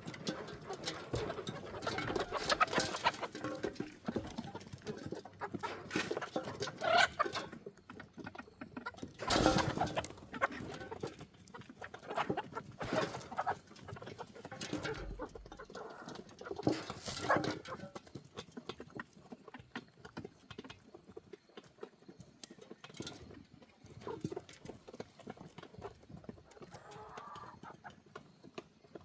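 Backyard hens clucking, with scattered knocks and rattles throughout, louder during the first two-thirds.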